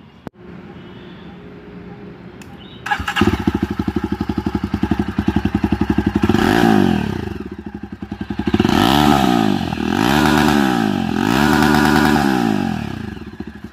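Jawa Perak's 334 cc single-cylinder engine starting about three seconds in, idling, then revved four times, each blip rising and falling back. It runs through its twin exhausts with the dB killers removed, and is very loud.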